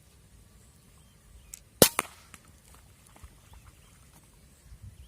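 A PCP air rifle shot: one sharp crack about two seconds in, followed a split second later by a second, quieter crack.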